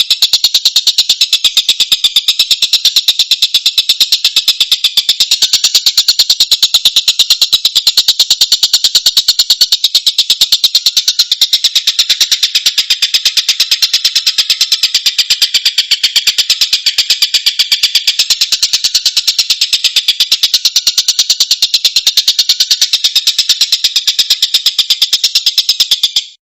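Tengkek buto kingfisher calling in a loud, continuous, very fast high-pitched chatter of rapidly repeated notes that cuts off suddenly near the end.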